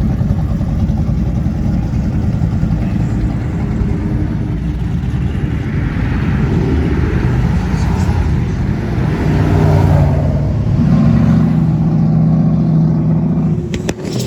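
Classic car engines rumbling as cars cruise slowly past. In the second half a louder engine comes close with a steady low drone.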